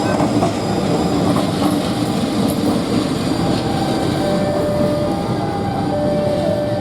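Train rolling across a railway bridge, its wheels clattering steadily over the rails, with thin high squealing tones that come and go.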